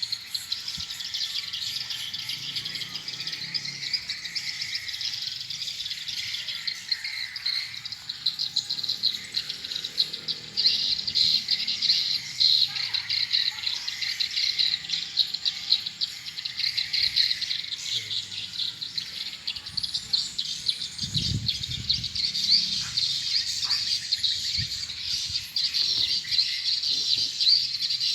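Dense, continuous high-pitched twittering of swiftlet calls around a swiftlet house. A brief low rumble comes about three-quarters of the way through.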